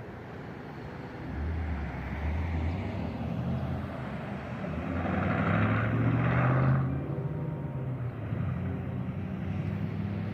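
Street traffic: a motor vehicle's engine rumbling as it passes, growing louder about a second in and loudest, with tyre hiss, around six to seven seconds in before easing off.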